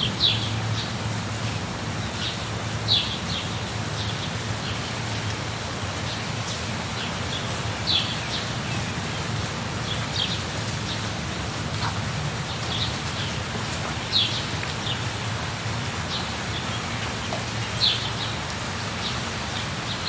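Steady rain falling, with a bird giving short high chirps that drop in pitch every few seconds.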